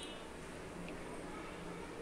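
Faint, steady hiss of a mashed potato mixture frying in oil in a kadai as it is stirred with a spatula.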